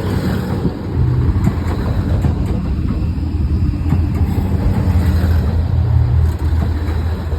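JR Central HC85 hybrid diesel train pulling into the platform: a steady low engine rumble with rail noise.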